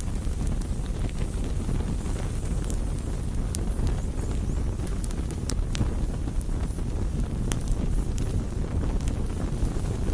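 Campfire burning: irregular sharp crackles and pops of burning wood over a steady low rumble.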